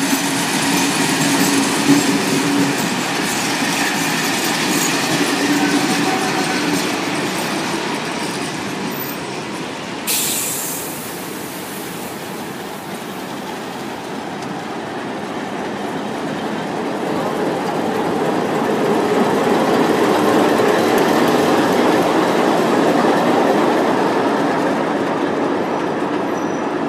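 Vintage 1930s passenger carriages rolling slowly past, wheels clicking over rail joints with a faint wheel squeal. A short, sharp hiss breaks in about ten seconds in. In the second half a diesel locomotive at the rear of the train passes, and the sound swells louder.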